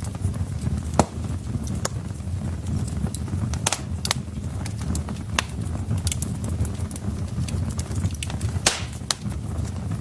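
Wood fire crackling in a hearth: irregular sharp pops and snaps over a steady low rumble of the burning logs, with one louder snap near the end.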